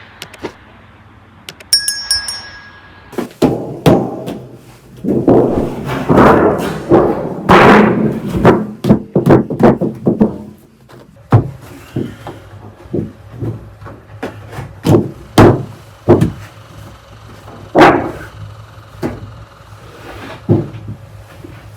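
A run of irregular knocks and thuds of hard objects being handled, thickest a few seconds in, with a brief metallic ring about two seconds in.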